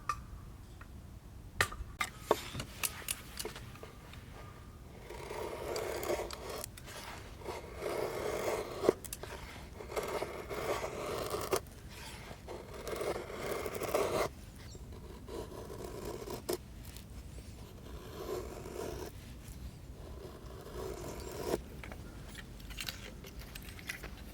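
A series of scraping or cutting strokes, each about a second long, with a few sharp clicks in the first few seconds.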